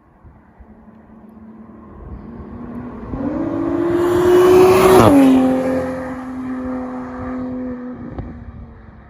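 2020 Toyota Supra's B58 turbocharged inline-six through a Borla ATAK exhaust, driving past. The exhaust note swells as the car approaches, drops in pitch as it passes about five seconds in, then fades away.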